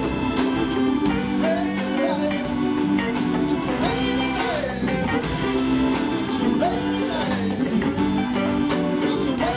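Live organ trio playing a slow soul ballad instrumental: Hammond B3 organ holding sustained chords under a guitar solo of bending, gliding notes, with drums and cymbals keeping time.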